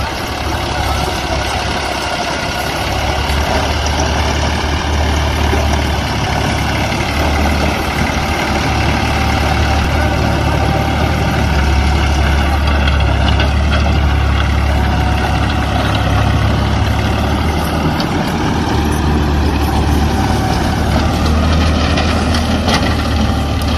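Tractor engine running steadily with a low drone.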